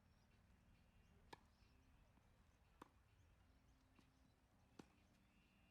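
Tennis ball being hit back and forth in a doubles rally: faint, sharp pocks of ball on racket and court, about five in all, roughly a second apart.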